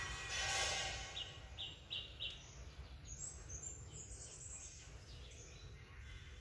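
Small birds chirping: four short, evenly spaced chirps a little over a second in, then higher, quicker chirping. A louder breathy hiss fills the first second, over a steady low outdoor rumble.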